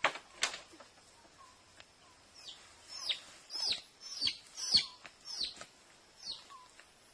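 Wild bird giving a run of about seven short, sharp calls, each dropping steeply in pitch, after two sharp clicks at the start.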